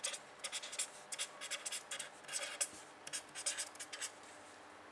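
Pen writing: clusters of short scratchy strokes across a writing surface, stopping about four seconds in.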